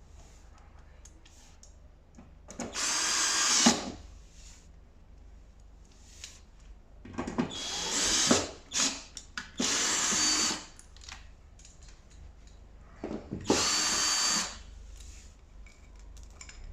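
Power drill-driver run in four short bursts of about a second each, a motor whine each time, typical of driving screws while assembling the tumble dryer.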